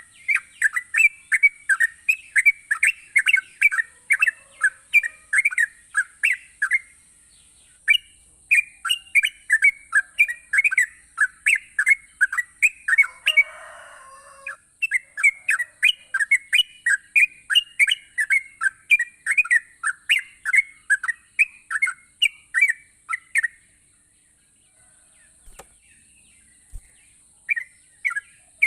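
A yellow-vented bulbul (trucukan) singing a busy chattering song of quick repeated notes in long runs, with short breaks and a pause near the end before a few more notes.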